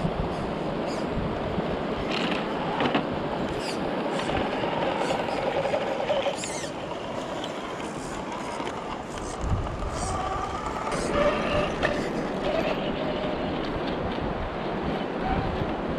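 A 1/10-scale RC rock crawler with a brushless motor driving over rough ground: a faint motor and gear whine that rises and falls, under a steady rushing noise, with scattered sharp clicks and knocks from the tyres and chassis on stones.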